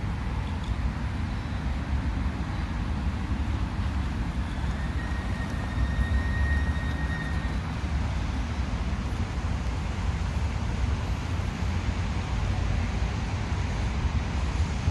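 Steady road traffic with a constant low rumble, with a brief high steady tone lasting about two and a half seconds, roughly five seconds in.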